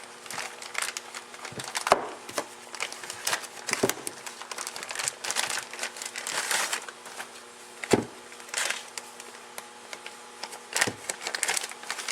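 Tools and their packaging being handled as they are unpacked: plastic and paper crinkling, with sharp knocks and clicks as the pieces are set down, the loudest knock about eight seconds in.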